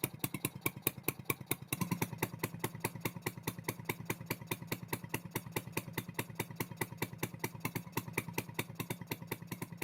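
1955 Stuart Turner P5ME single-cylinder two-stroke marine engine running at a steady pace, with a rapid, even firing beat. It gets a little louder about two seconds in.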